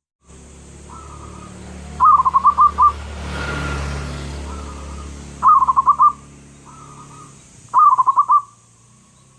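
Zebra dove (perkutut) singing: three phrases, each a soft opening note followed by a quick run of four or five loud, bubbling coos, about every three seconds. A steady low hum runs underneath.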